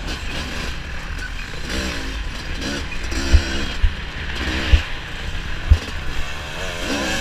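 Off-road dirt bike engine revving up and down several times, with heavy wind buffeting on the microphone.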